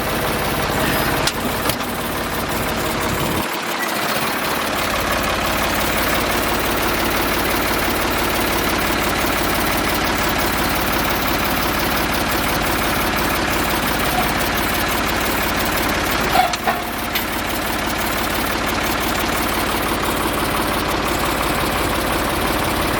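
Tractor engine running steadily while it pushes a dead tractor sideways on a trailer, with a brief drop in its low rumble about four seconds in.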